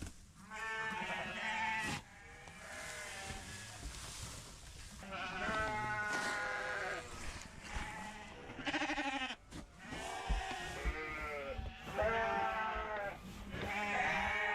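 A flock of sheep bleating loudly, many calls overlapping one after another. The ewes are calling for feed, expecting grain.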